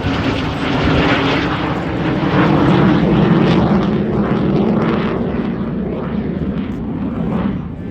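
Jet aircraft flying past in a display, a loud engine roar that peaks a few seconds in and then dulls and fades as it moves away.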